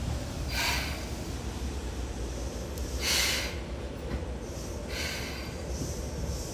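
Seibu 2000 series electric train: a steady low rumble with three short hisses, near the start, about three seconds in and about five seconds in.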